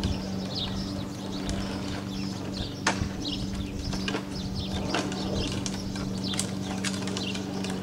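Outdoor ambience: small birds chirping off and on over a steady low hum, with one sharp click about three seconds in.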